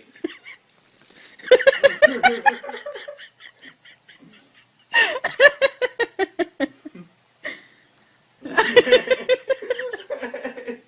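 Hearty laughter in three long bursts, each a fast run of pulsed breaths.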